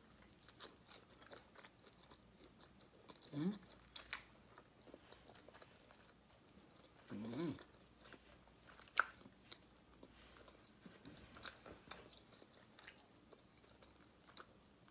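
Close-up eating sounds: biting into and chewing fried chicken, with faint crunches and small wet mouth clicks. Two brief hummed vocal sounds come about three and seven seconds in.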